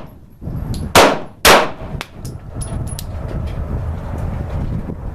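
Two shots from a Girsan MC21 9mm semi-automatic pistol, about half a second apart, about a second in, followed by a few fainter sharp clicks.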